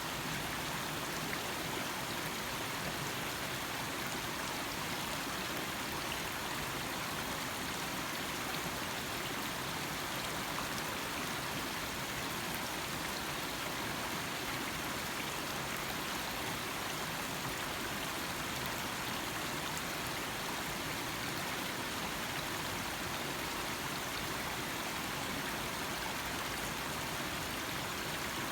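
Small stream running steadily, an even rushing and trickling of water over stones.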